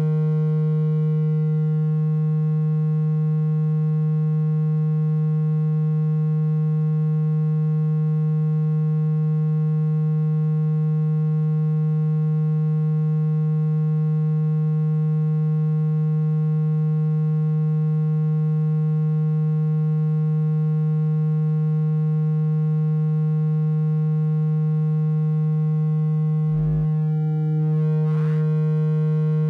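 Steady low water-ejection tone, held unchanged, played through a wet phone speaker to vibrate the water out of it. A brief click interrupts it twice near the end.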